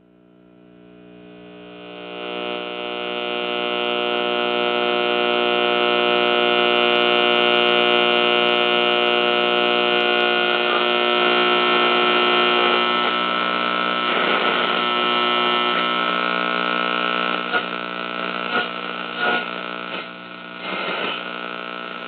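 A dense, steady drone of many held tones that swells in from silence over the first few seconds and then holds, with a few short crackling sounds in its second half.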